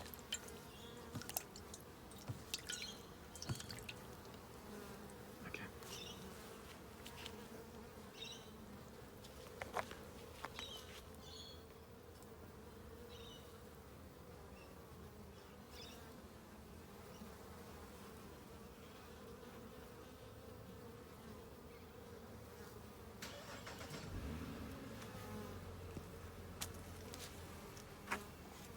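Honeybees buzzing steadily around an open hive, with scattered light clicks and a few short high chirps. A low rumble rises for a few seconds near the end.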